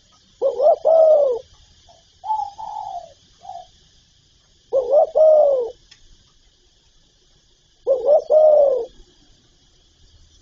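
Spotted dove cooing: three loud two-part coos about three and a half seconds apart, each note swelling and falling in pitch, with a few softer short notes between the first and second coo.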